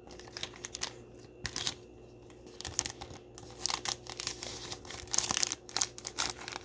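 Plastic trading-card packaging crinkling and rustling in the hands, with irregular small crackles and clicks that grow busier toward the end.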